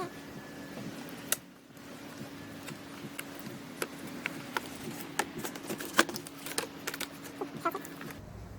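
Scattered clicks, taps and light rattles of hands undoing clips, connectors and fittings on a BMW E46 330i's intake, with a steady low hum underneath that stops near the end.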